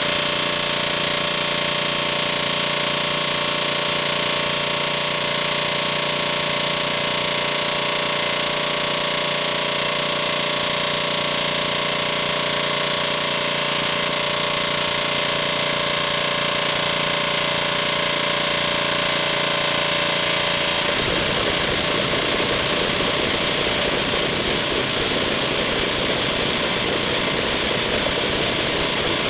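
A large engine running steadily at a constant speed. About three quarters of the way through, the sound changes abruptly to a rougher, noisier running with more deep rumble.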